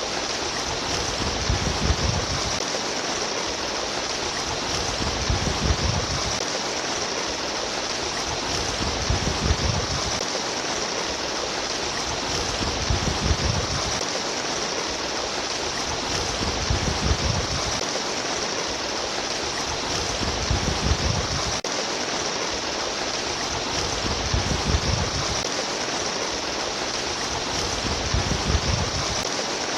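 Trickling, babbling water running steadily, with a deeper swell in the flow about every four seconds.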